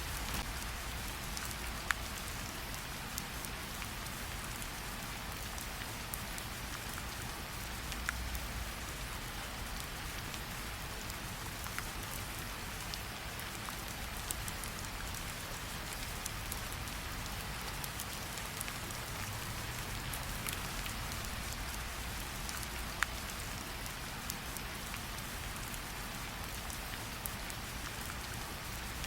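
Steady rain falling, an even hiss, with a few sharp pops from a crackling campfire now and then.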